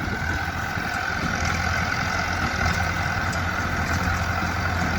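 A vehicle engine running steadily, a constant low hum with no change in speed.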